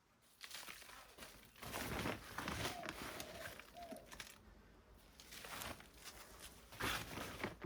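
Plastic bag of soil crinkling and rustling in a few bursts as it is handled, with a short rising-and-falling tone sounding twice in the background.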